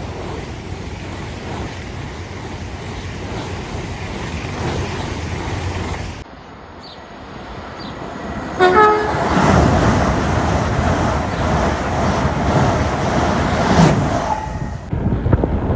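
Passing train noise, a steady rush and rumble, then one short train horn toot about nine seconds in. Louder noise of a train going by follows.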